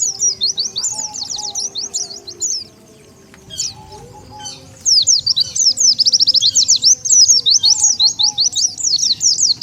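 White-eye (pleci) song used as a lure call: rapid high twittering made of fast, sliding chirp notes. A run at the start stops after a few seconds, and after a short pause a longer, denser burst of twittering follows.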